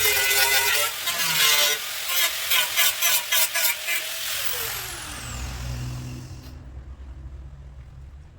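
A motor running at a steady high pitch, with a few sharp clicks, then falling in pitch and dying away about five seconds in, leaving a low hum.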